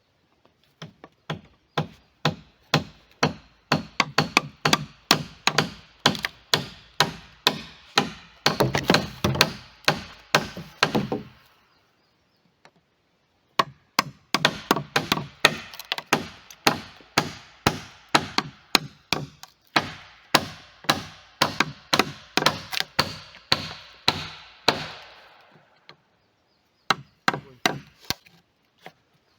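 A hand tool striking wood in quick runs of about three blows a second, with a pause of a couple of seconds between the two long runs and a few last blows near the end.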